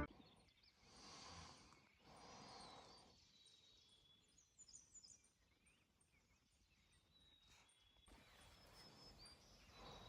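Near silence with faint, scattered bird chirps in the distance, and a couple of soft puffs of noise early on.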